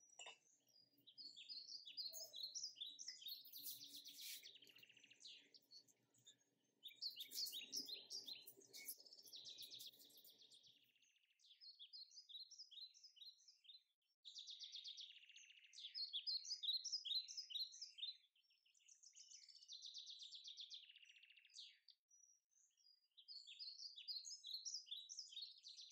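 Birds chirping and singing faintly in quick runs of short notes, phrase after phrase with brief pauses between.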